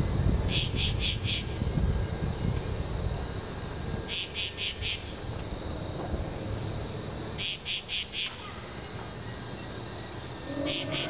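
A cricket chirping: short chirps of about four quick pulses each, repeated four times about three seconds apart, over a steady low rumble.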